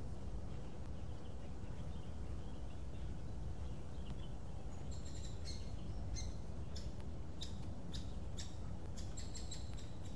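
Birds chirping in short, quick repeated notes, starting about halfway through and coming thicker near the end, over a steady low background rumble.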